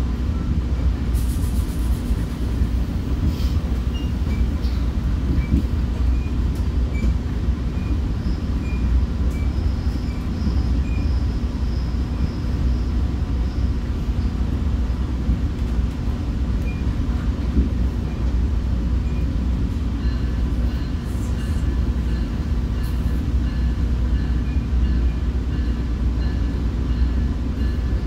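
Commuter train running: a steady low rumble with faint high-pitched tones over it, which grow a little clearer near the end.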